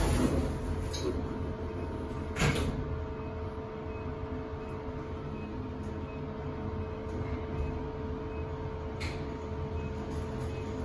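Schindler machine-room-less goods traction lift running: a steady low rumble with a constant humming tone, with a brief noisy rush at the start and a sharp clunk about two and a half seconds in.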